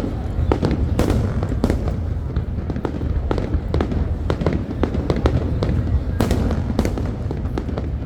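Aerial fireworks display: a rapid, continuous run of sharp bangs and crackles, several a second, over a steady low rumble of booms.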